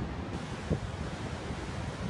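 Ocean surf washing on a sandy beach in a steady rush, with wind buffeting the microphone in low rumbling gusts.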